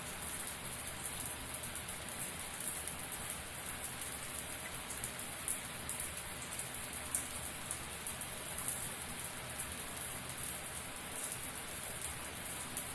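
Shower running steadily: a constant hiss of water spray, brightest in the high end, with fine ticks of individual drops throughout.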